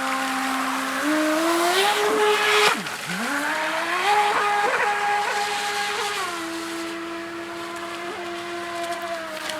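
3D-printed RC jet boat's motor whining as it is throttled: the pitch climbs twice, dropping briefly about three seconds in, then eases to a lower, steady whine for the rest.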